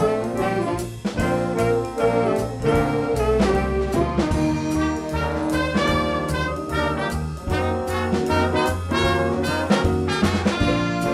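Instrumental music from a brass-led band, trumpets and trombones playing held, stacked notes over a steady beat of drum hits.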